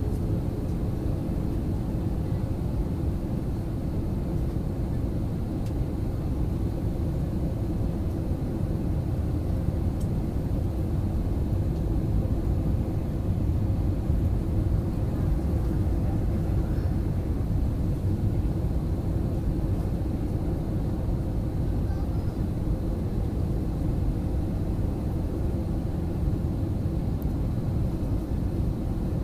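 Airliner cabin noise: a steady low rumble of engines and airflow heard from inside the cabin, with a faint steady hum running through it.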